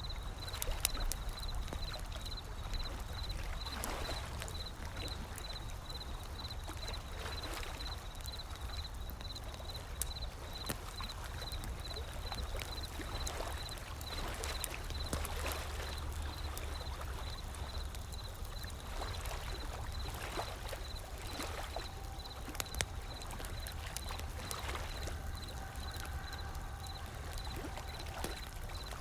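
Wood fire crackling with frequent sharp pops over a steady wash of ocean waves and a low rumble.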